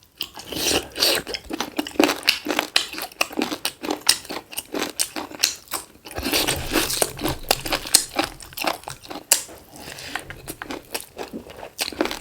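Close-miked chewing and biting of black chicken gizzard, with many sharp crunching clicks.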